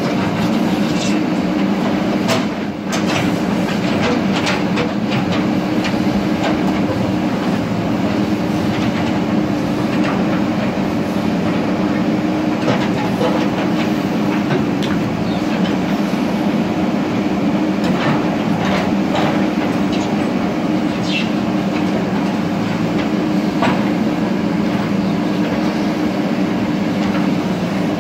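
JCB earthmover's diesel engine running steadily under working load, with scattered metallic clanks and clicks from the machine as it works.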